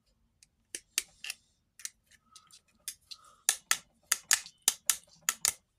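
Sharp metallic clicks of a retaining ring being worked and snapped into the groove on a heater blower motor's armature shaft. The clicks are sparse at first, then come quicker and louder through the second half.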